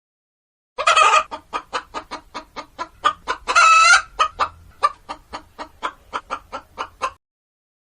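Hen cackling: a fast run of short clucks, about four a second, broken by two longer drawn-out calls, about a second in and again near the middle. It starts after a moment of silence and stops about a second before the end.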